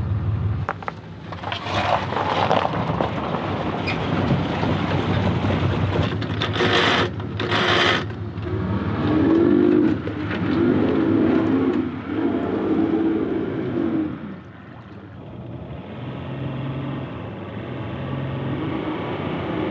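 Boat motor running, its pitch swelling up and down several times around the middle, with two short loud hissing bursts a little before that.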